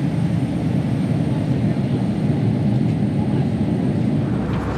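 Airbus A320-200 cabin noise: a steady low rumble of jet engines and airflow, changing near the end to a broader, brighter sound.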